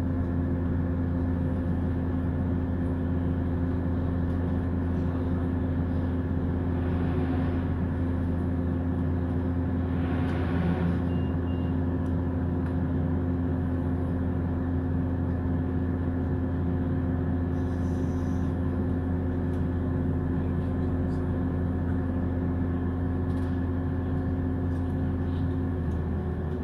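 Diesel passenger train heard from inside the carriage while running at speed: a steady low engine and transmission drone with several held tones above it. The rushing noise rises briefly about ten seconds in.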